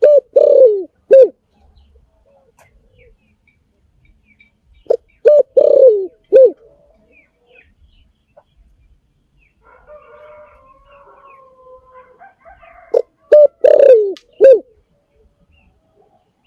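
Spotted dove cooing: three loud phrases, near the start, about five seconds in and about thirteen seconds in, each a short coo, a longer falling coo and a clipped final coo. A fainter, softer cooing runs in the gap before the last phrase.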